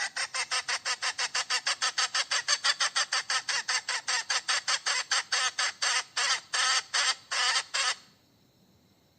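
Hen cackling in a fast run of short harsh notes, about five a second, slowing a little before stopping abruptly about eight seconds in.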